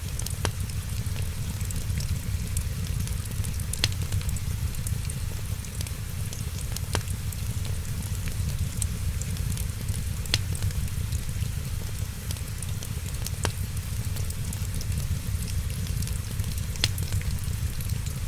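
Wood fire crackling, with sharp pops every second or two over a steady low rumble and hiss.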